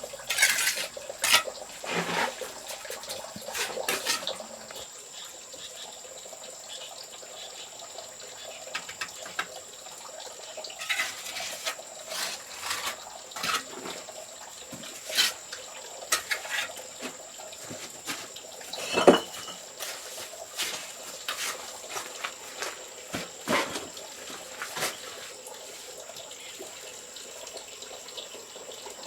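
Water splashing and pouring in irregular short bursts, with the loudest splash about two-thirds of the way through.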